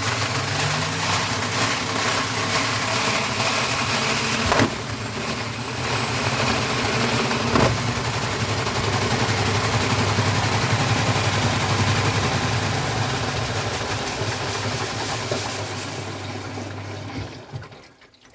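Vestel washing machine running an unbalanced spin in service mode: a loud rushing drum-and-motor noise with a low whine rising in the first second and two sharp knocks a few seconds apart, then winding down and stopping near the end.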